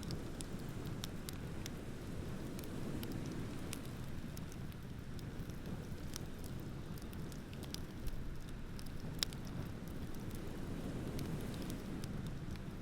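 Wood bonfire crackling, with scattered sharp pops and two louder ones about 8 and 9 seconds in, over a steady low rush of ocean waves.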